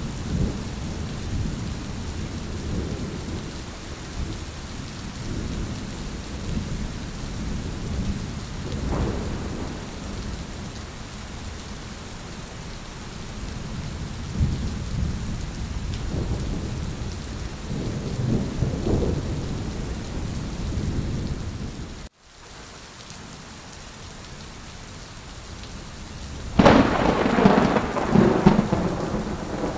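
Thunderstorm: steady rain under low rolling thunder that swells and fades in waves. About 22 seconds in the sound cuts out for an instant and comes back quieter. Near the end a sudden loud, sharp thunderclap breaks out and rumbles on for a few seconds.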